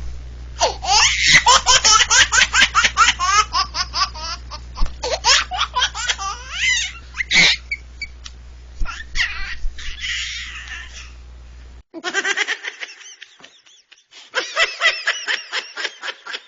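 A baby laughing hard in rapid, high-pitched bursts, several laughs a second, easing off briefly past the middle before breaking into another run of laughter.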